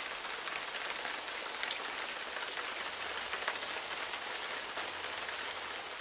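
Steady rain falling, an even hiss sprinkled with many close drop ticks.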